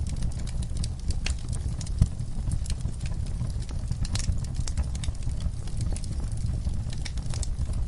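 Wood fire burning in a fireplace: a steady low rumble of flames with irregular crackles and small pops, one sharper pop about two seconds in.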